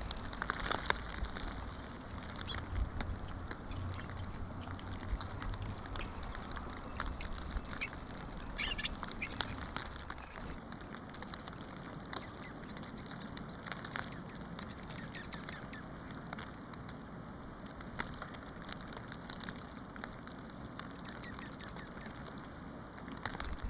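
Birds calling in short chirps here and there, over many faint scattered clicks.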